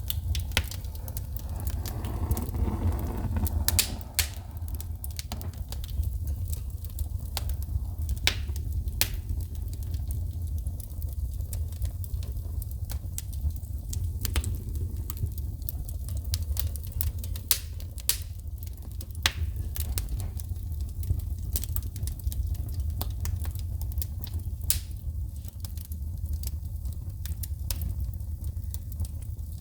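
Wood fire crackling in a fireplace, with frequent irregular sharp pops and snaps of sparking wood over a steady low rumble.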